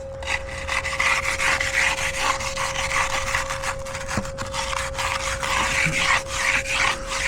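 A hand finishing tool scraping in repeated short strokes over fresh concrete, with a faint steady hum underneath.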